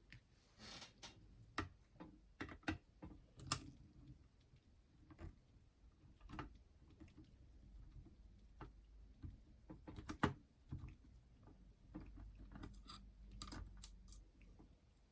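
Scattered small clicks and taps from parts of a clock radio's cassette deck being handled and worked loose during disassembly, coming at irregular intervals with the sharpest about three and a half seconds and ten seconds in.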